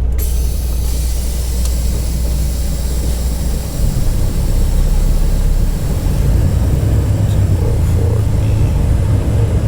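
Semi-truck diesel engine running with a steady low drone that speeds up about four seconds in, getting louder and higher.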